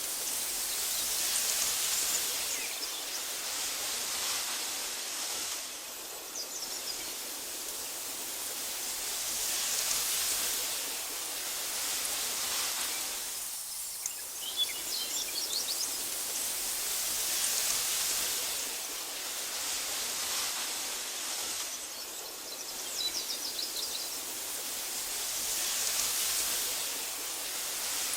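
Wind blowing through tall meadow grass: a steady airy hiss that swells and eases about every eight seconds. A few short high chirps come through, the clearest about halfway through.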